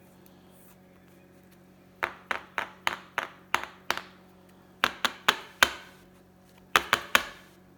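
A run of sharp taps or claps, about fourteen in three quick bursts of seven, four and three, each short with a quick decay.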